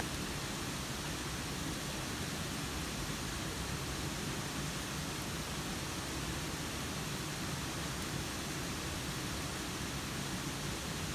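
Steady rain falling, an even hiss with a faint tick or two.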